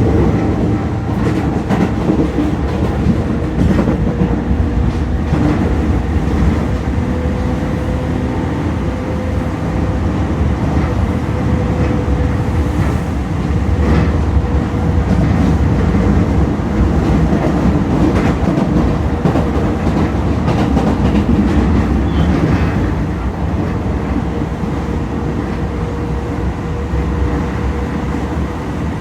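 Toei 10-300 series electric train running at speed. Its Mitsubishi IGBT-VVVF traction equipment gives a steady tone over the wheel rumble, and the wheels click over rail joints now and then.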